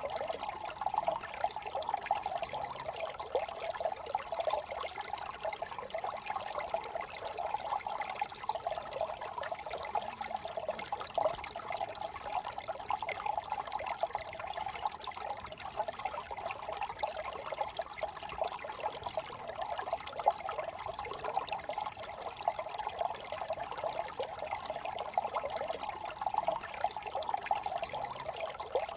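Brook water trickling and babbling, steady and unbroken.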